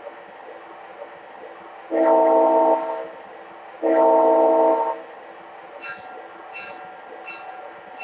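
Sound system of an MTH model locomotive: two horn blasts, the second a little longer, the usual two-blast signal before moving off. About a second later a locomotive bell starts ringing at a steady pace, over a steady engine-sound background.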